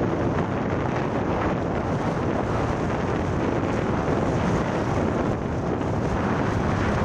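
Wind buffeting the microphone of a moving motorcycle: a steady, loud rushing noise.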